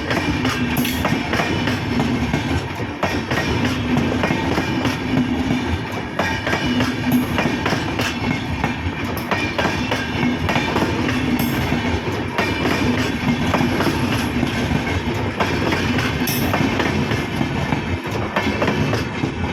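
Passenger express train running on the rails: a steady, loud rumble and clatter of the wheels.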